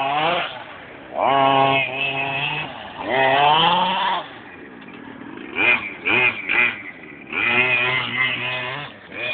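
FG large-scale RC monster truck's small two-stroke petrol engine revving in bursts. Its pitch rises at the start and again about three seconds in, holds steady between, gives several short quick blips of throttle in the middle, and runs steadily again near the end.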